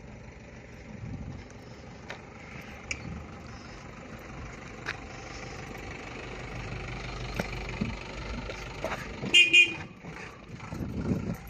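A vehicle running, with a steady engine and road noise, and a horn sounded in two short toots near the end.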